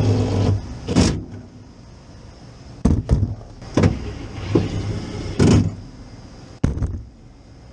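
Metal knocks, clicks and short scrapes from handling parts and tools in a rooftop HVAC unit's control panel as relays are unmounted and moved, about five separate strikes a second or so apart over a low steady hum.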